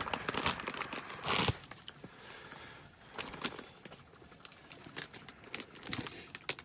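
Crinkling and rustling of a breakfast food pouch being handled and opened, in irregular short rustles with one longer, louder rustle about a second and a half in.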